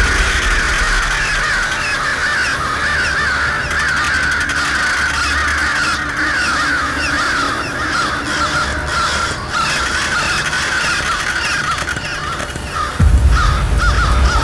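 A large flock of black birds calling all at once, a dense chorus of short harsh overlapping calls. A low rumble comes in suddenly near the end.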